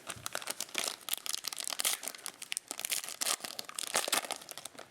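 Trading card pack wrapper being torn open and crinkled, a dense run of crackling through the whole stretch.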